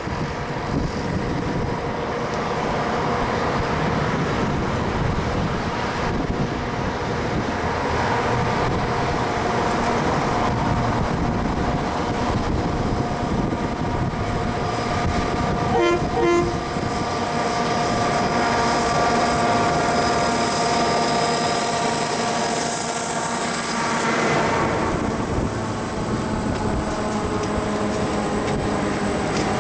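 G-class diesel-electric locomotive with its EMD 645E engine working under load as it hauls a loaded gravel train past, its engine note strongest after about the middle and dying away once it has gone by. A short toot of the horn sounds about halfway through. The loaded hopper wagons then roll past, clicking over the rail joints.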